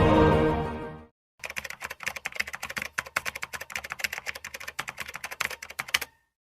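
Music fading out within the first second, then rapid, irregular clicking like typing on a computer keyboard for about four and a half seconds, stopping abruptly.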